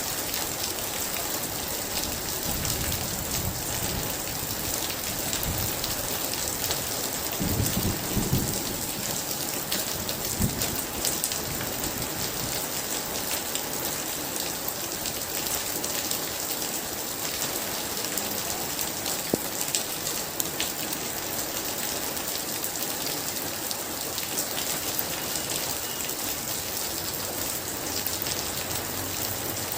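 Very heavy rain falling steadily, with thunder rumbling a few seconds in and again, louder, about eight seconds in.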